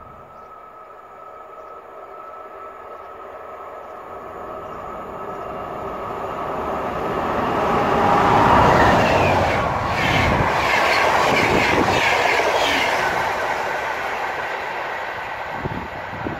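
Electric locomotive hauling passenger coaches past on mainline track. The rumble rises as it approaches and is loudest as the locomotive passes about eight seconds in. Wheels then click rhythmically over the rails as the coaches go by, and the sound fades away.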